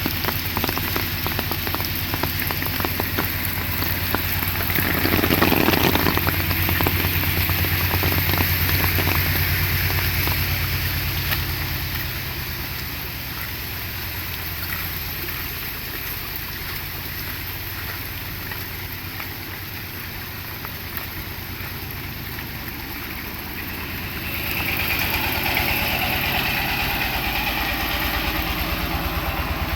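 Steady rain falling, with a motor engine running under it. The engine is louder for the first dozen seconds, fades, and grows louder again near the end.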